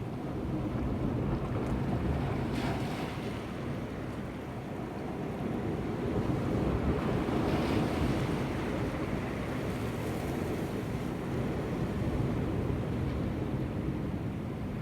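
Sea surf washing against shoreline rocks, swelling louder a couple of times as waves come in, with wind rumbling on the microphone.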